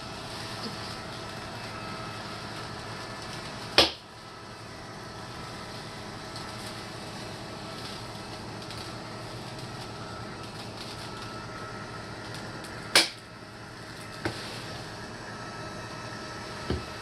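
Litter-Robot 3 self-cleaning litter box running with a steady hum, broken by two loud sharp pops about nine seconds apart and two fainter clicks near the end: the popping noise the unit makes during its cycle.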